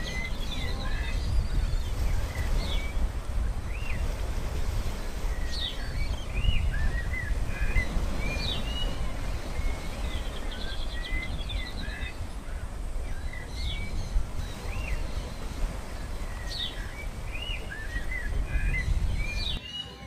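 Small birds chirping and twittering in short rising and falling notes over a steady low rumbling noise. The same run of chirps comes round again about every eight seconds.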